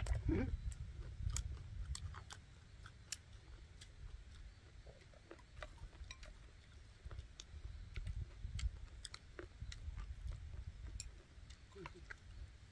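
People chewing bread and vegetables, with scattered small clicks over a low rumble.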